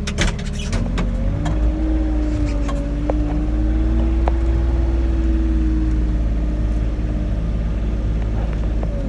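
Kubota RTV 1100 utility vehicle's three-cylinder diesel engine running under load while pushing snow with a V-plow, heard from inside the cab. It is a steady low rumble with a whine that rises in pitch about a second and a half in, holds, and drops near the end.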